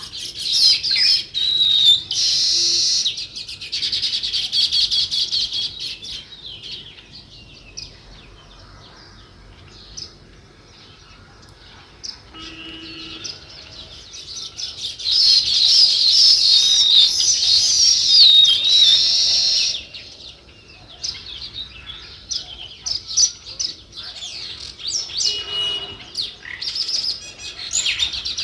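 Small songbirds chirping: dense, rapid chattering for the first several seconds and again from about 15 to 20 seconds in, with scattered single chirps between.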